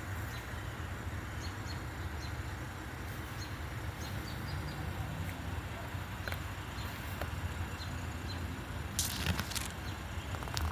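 Outdoor garden ambience: a steady low rumble with faint, short bird chirps scattered through it, and a brief rustling noise about nine seconds in.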